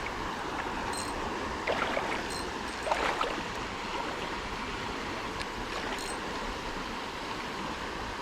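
Creek water running steadily over rocks, with a few short sharp clicks, about four, scattered through it.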